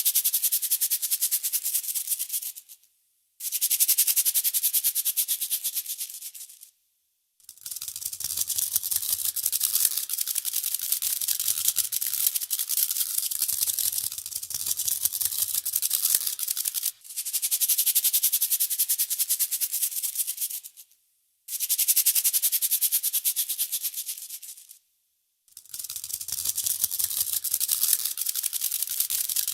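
A fast, high rattle, like a rattle or shaker being shaken, in stretches of a few seconds broken by short silences.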